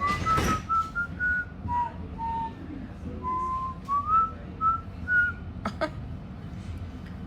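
A person whistling an improvised tune: a wandering string of short notes that step up and down in pitch. There is a sharp click a little before six seconds in.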